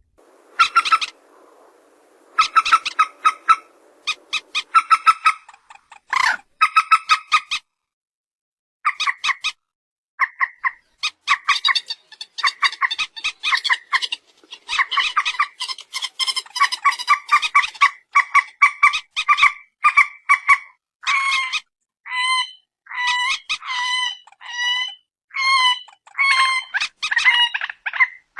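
Mandar batu, a rail-family waterbird, calling in bouts of rapid, repeated clucking notes with short pauses between bouts. The bouts come more densely from about ten seconds in.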